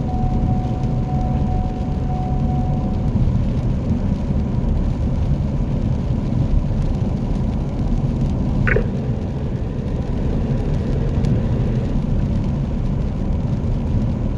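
Steady low rumble of a car's engine and tyres heard from inside the cab while driving, with a faint steady whine and one short chirp a little past the middle.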